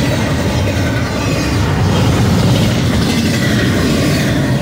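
BNSF double-stack intermodal freight train passing at speed, a loud, steady rumble of steel wheels on rail as the loaded container well cars roll by.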